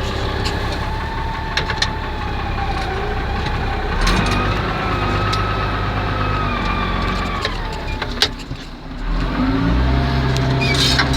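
Diesel tractor engine running while ploughing, its note stepping up about four seconds in, fading briefly near eight seconds, then coming back deeper and louder.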